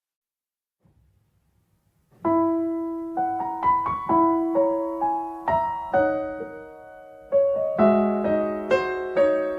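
Near silence, then a solo piano begins about two seconds in, playing a slow melody over chords, each note struck and fading.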